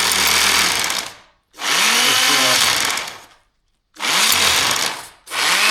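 DeWalt D25003K corded rotary hammer test-run in hammer-only mode, in short trigger bursts. There are about four runs of one to two seconds each, with the motor winding up and down each time and a loud, rough hammering noise throughout.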